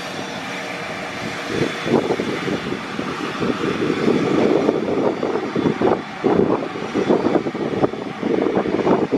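Cessna Citation CJ3 business jet's twin turbofan engines running: a steady jet rush that swells and wavers.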